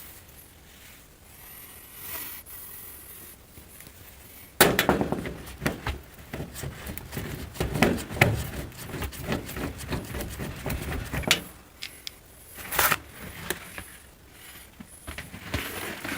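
A clatter of knocks, clicks and scrapes, as of hard parts being handled and moved, starting about four and a half seconds in and running for several seconds, with a few more knocks near the end.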